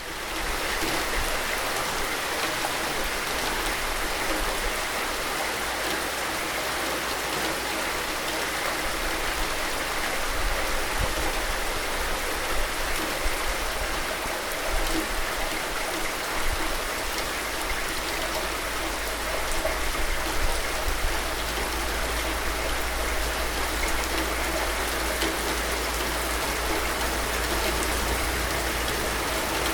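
Steady rain falling, an even dense hiss of drops with a few slightly louder spatters.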